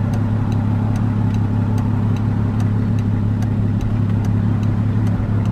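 Volkswagen Jetta's engine idling steadily, heard from inside the cabin, with a light, fast, regular ticking over the hum.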